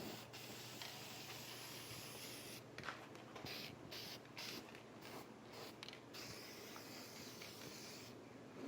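Faint hiss of paint being sprayed, steady at first and then broken into short bursts about three seconds in, stopping shortly before the end.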